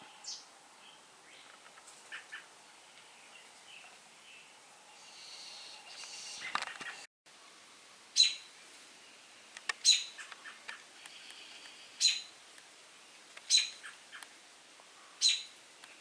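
Small songbird chirping outdoors: single short, high chirps repeated about every two seconds. The sound briefly cuts out about seven seconds in.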